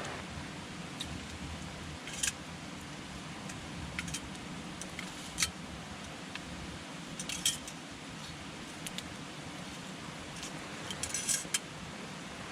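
Wood campfire burning: a steady low hiss with scattered sharp crackles and pops from the burning wood, several of them clustered near the end.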